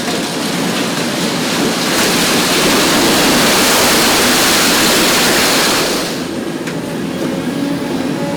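Hitachi ZX 870-3 XXL long-front demolition excavator's diesel engine running steadily. About two seconds in, a loud rushing noise swells over it for around four seconds, then dies away.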